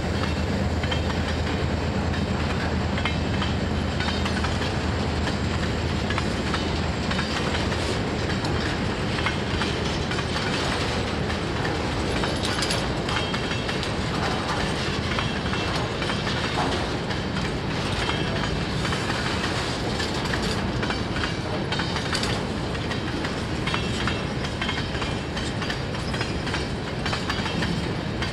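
Freight train cars rolling past steadily, wheels clacking over the rail joints. A low hum fades in the first second.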